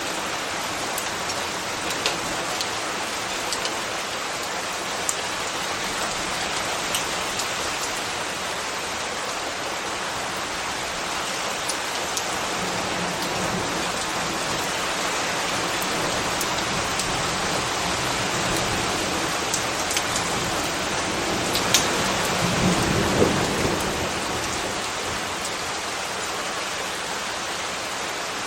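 Steady rain falling, with scattered sharp drip clicks. About two-thirds of the way through, a louder, lower swell rises and fades over a few seconds.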